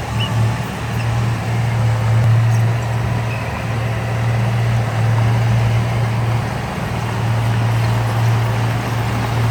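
Diesel engine of heavy earthmoving machinery running steadily with a continuous drone.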